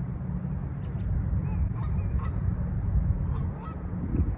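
Birds calling from around a pond, over a steady low rumble.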